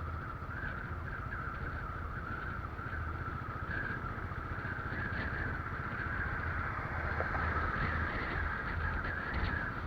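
Motorcycle riding along steadily: a low engine rumble under a constant high-pitched hiss of wind and road noise.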